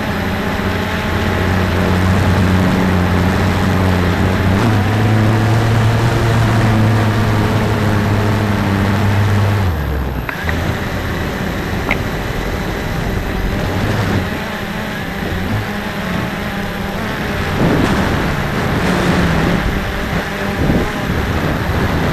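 Cheerson CX-20 quadcopter's motors and propellers humming over a rush of wind. The pitch steps up about four seconds in and drops sharply near the middle, as the motors work to hold position in gusty wind.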